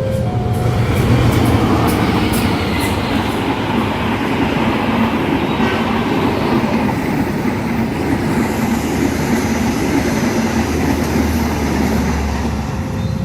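Train passing close by at speed: a continuous loud rush of wheels on rail, with sharp clicks from the wheels over the rail joints in the first few seconds. The tail end of a horn blast fades out at the very start.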